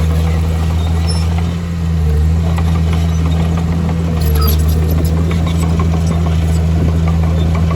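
Heavy diesel engine of earthmoving machinery running steadily with a deep hum, with scattered light clicks and rattles over it.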